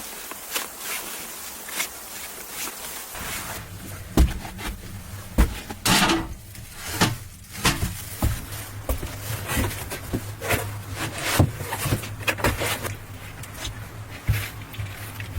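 Irregular knocks and clicks, as of wood and gear being handled, over a steady low hum that starts about three seconds in; before that only an even hiss.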